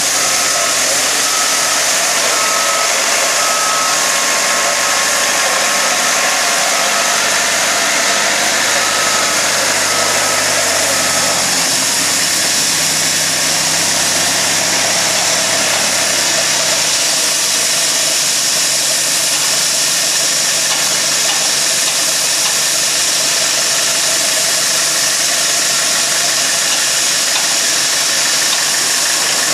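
A train's engine running with a steady low hum under loud, even noise. The hum changes pitch about twelve seconds in and again around seventeen seconds.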